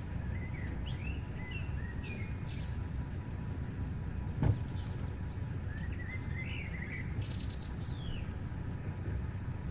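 Small birds chirping and calling in short, sliding notes over a steady low rumble, with a single sharp knock about four and a half seconds in.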